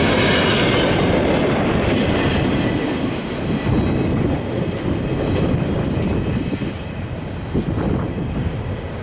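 Double-stack intermodal freight cars of a CSX stack train rolling past on the rails, a steady noise of wheels and cars whose high hiss thins out after about two seconds.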